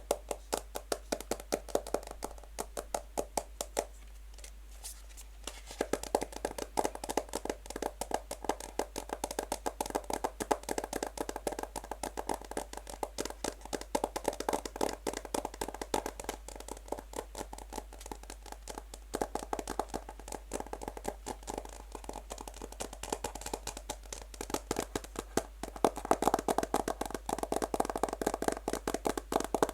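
Fast natural fingernail tapping on a box: a dense, rapid run of light clicks, thinning briefly about four seconds in before picking up again.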